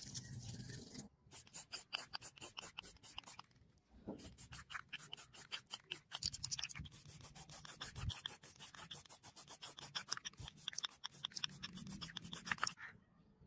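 Rapid rhythmic scraping strokes, about five a second, like a hand tool worked back and forth against a surface. They come in a short run, pause briefly about three and a half seconds in, then run on and stop shortly before the end.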